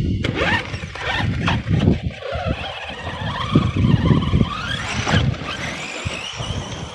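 Redcat Shredder 6S electric RC monster truck driving over rough, muddy ground: its motor whine rises and falls with the throttle over constant tyre and chassis rumble and knocks.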